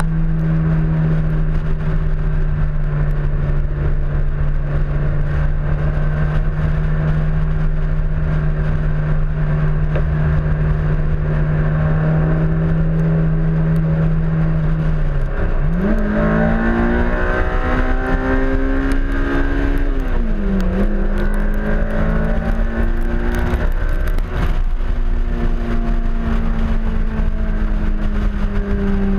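Honda S2000's four-cylinder engine at speed on a race track, heard from the front fender with heavy wind rumble on the microphone. The engine holds a steady note for about fifteen seconds, then its pitch dips and climbs as it accelerates, dips again about twenty seconds in and climbs once more, and falls away near the end.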